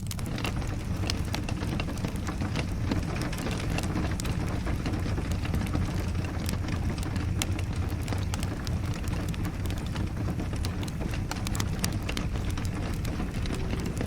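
Wood fire crackling and popping in a fireplace, irregular sharp snaps over a steady low rumble of the flames.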